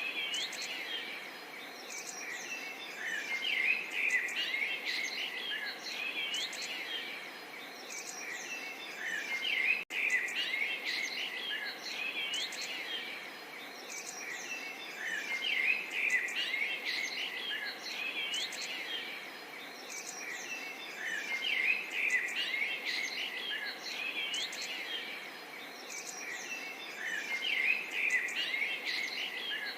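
Many songbirds chirping and singing together in a dense, continuous chorus of quick chirps and whistles, broken by a brief sudden dropout about ten seconds in.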